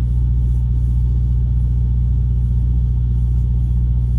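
Truck engine running at a steady idle, a constant low hum inside the cab.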